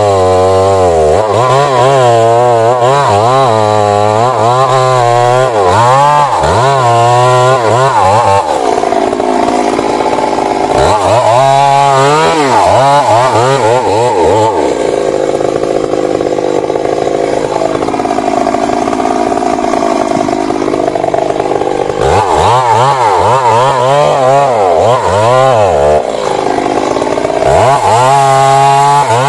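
Stihl MS 382 two-stroke chainsaw running loud at high revs while cutting wood, its pitch wavering up and down repeatedly. Through the middle it holds a steadier pitch, as in a long steady cut.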